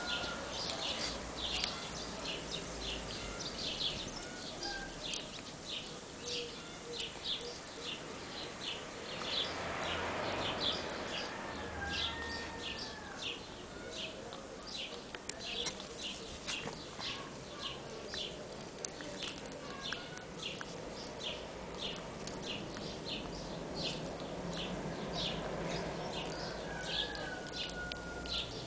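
Birds calling: a short high chirp repeated steadily about twice a second, with a few other gliding calls now and then.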